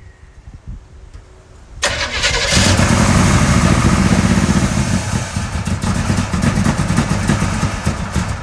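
A 1965 Pontiac GTO's V8 engine starting about two seconds in, then running loud and rough.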